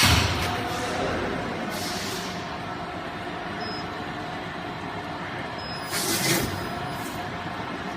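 Stretch film rewinding machine running steadily, with short hisses of air right at the start, about two seconds in and again about six seconds in.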